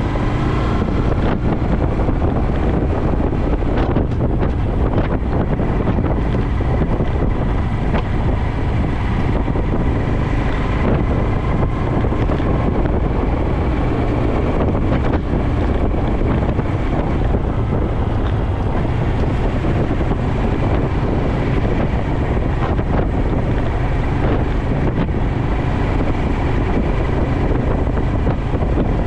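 Honda Dax 125's single-cylinder engine running steadily through a Takegawa normal-look sport muffler, with wind rushing over the microphone.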